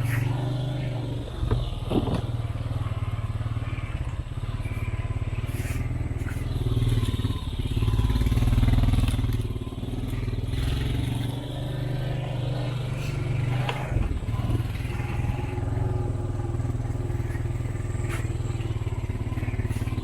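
Off-road vehicle engine running steadily while driving, swelling in level for a couple of seconds around the middle. A few sharp knocks and clatters come from the bumpy ride.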